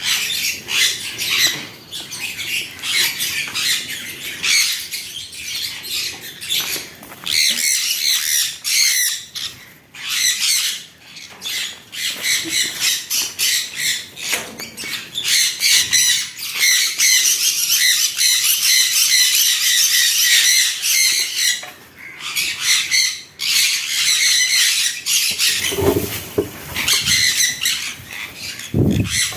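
A group of caged pet birds chattering and squawking continuously, many overlapping high calls at once, with a couple of low thuds near the end.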